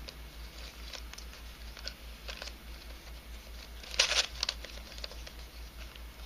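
Faint clicking and scraping of a 3D-printed nylon twisty puzzle's pieces as its faces are turned by hand, with a louder cluster of clicks about four seconds in.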